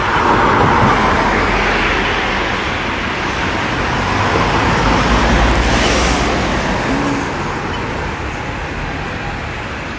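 Road traffic passing a pedestrian crossing: a steady rush of vehicles, swelling about a second in and again around five to six seconds in as a heavier vehicle goes by with a low rumble.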